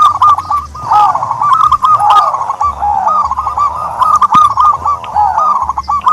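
Turtledoves calling: many short hooked coos overlapping one another in a continuous, busy chorus.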